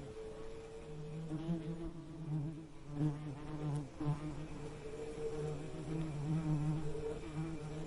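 Bee buzzing: a low, wavering hum that swells and fades, with a short dip about four seconds in.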